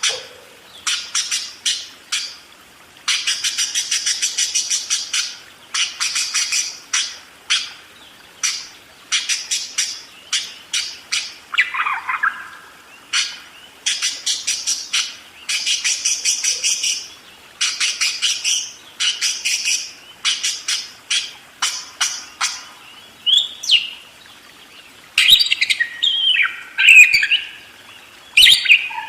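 Budgerigar chattering continuously: rapid, buzzy chirp trains in short repeated bursts, with a few louder and more varied squawky calls near the end.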